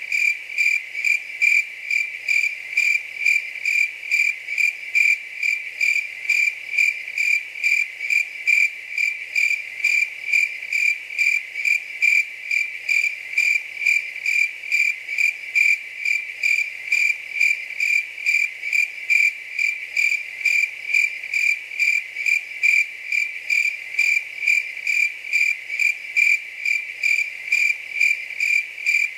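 A cricket chirping steadily, a high, even, pulsed chirp repeating about twice a second without a break.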